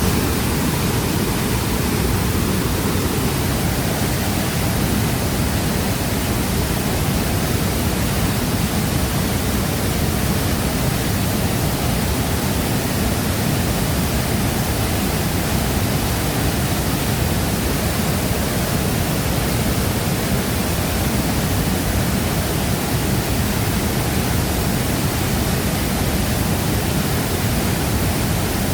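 Large waterfall's water pouring steadily into its plunge pool: a dense, unbroken rush, heaviest at the low end.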